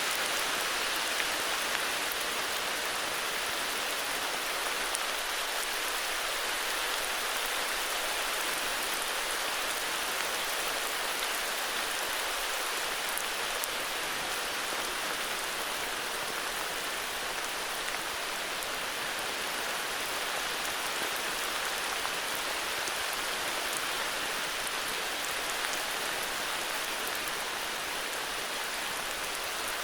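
Steady heavy rain, an even hiss of falling drops with faint scattered patters.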